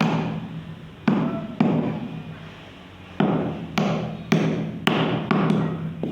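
A tool knocking on bamboo: about seven sharp strikes in short runs, each with a brief ringing decay.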